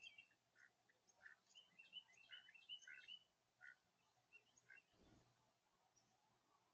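Faint chirping of small birds: many short calls during the first four seconds, then sparser. A brief low rumble about five seconds in.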